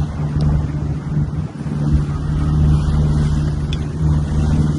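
An engine running steadily with a low drone and some noise on top, like a vehicle or boat heard from on board.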